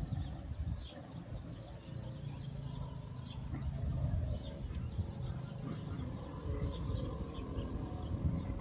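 Small birds chirping faintly and often over a steady low outdoor rumble.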